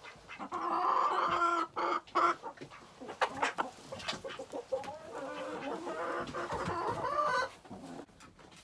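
Domestic hens clucking, with drawn-out pitched calls in two spells, the second ending a little before the end.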